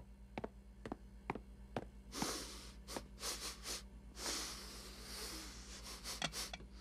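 Pig sniffing and snuffling in short, breathy bursts from about two seconds in. Before that come light, evenly spaced clicks, about two a second.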